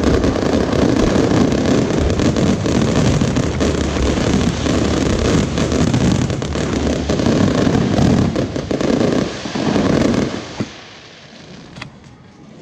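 Fireworks barrage: dense, continuous bangs and crackling that die away about ten and a half seconds in, followed by a couple of lone pops.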